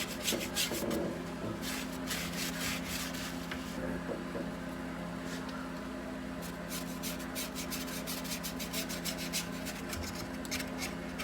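A nearly dry paintbrush with cheap plastic bristles scraping lightly back and forth across old wood in quick repeated strokes, dry-brushing paint for a rough, antiqued look. The strokes pause for a couple of seconds in the middle. A steady low hum runs underneath.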